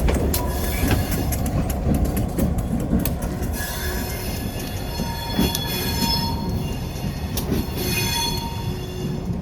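Freight train cars rolling past with repeated clicks from the wheels. From about three and a half seconds in, the wheels squeal in several high, wavering tones.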